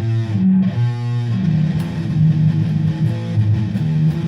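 Electric guitar in drop C# tuning playing a run of low root notes of a riff on the bottom strings, the notes changing every fraction of a second.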